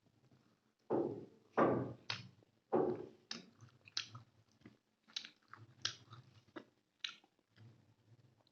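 Close mouth sounds of someone chewing rice with chicken gravy: wet smacks and clicks, a few louder ones in the first three seconds, then quieter, more scattered chewing.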